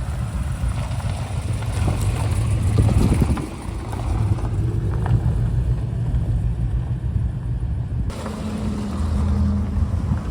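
A vehicle engine running with a low, steady rumble, with wind buffeting the microphone. The sound changes abruptly about eight seconds in.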